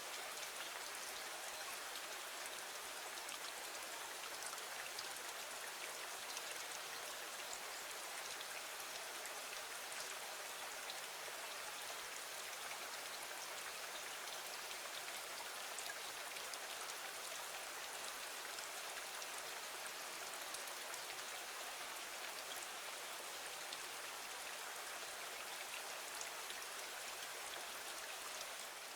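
Steady rain falling against a window, an even hiss with faint scattered drop ticks.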